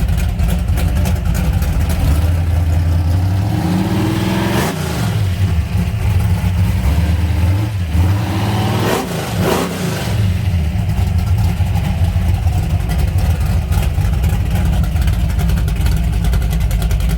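A car engine running loudly with a deep rumble, its pitch swooping down and back up twice, about four and nine seconds in, as the revs change.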